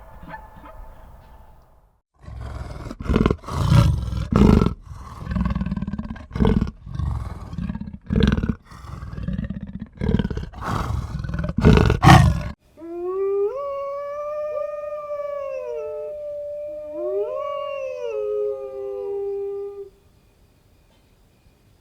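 A large animal giving a series of loud, rough roaring calls for about ten seconds, followed by a long wavering howl-like call that rises and falls in pitch for about seven seconds.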